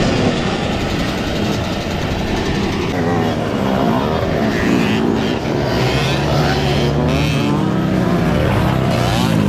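Motocross dirt bike engines racing, their pitch rising and falling as the riders accelerate and back off.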